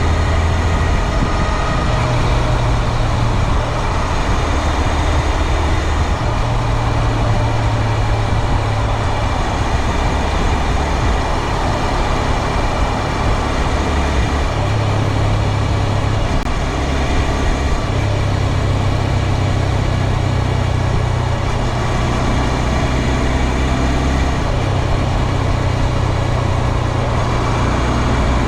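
2022 Honda Grom's 125 cc single-cylinder engine running under way, its note stepping up and down in pitch every few seconds as the throttle and gears change, over steady wind and road noise. The owner reports a persistent drivetrain noise that replacing the chain with an O-ring chain has not cured.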